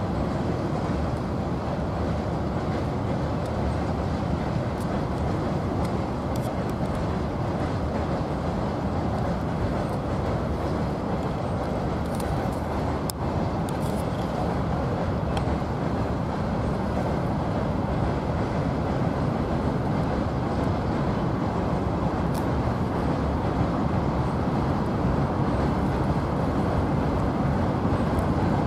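Freight train rolling across a steel truss railway bridge: a steady rumble of wagons on the rails.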